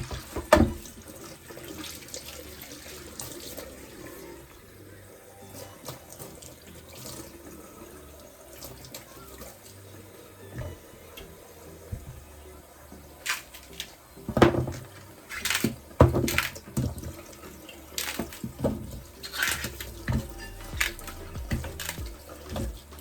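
Kitchen tap running into a sink as things are washed, with scattered knocks and clatters of items handled in the sink, the loudest about half a second in and twice near the middle.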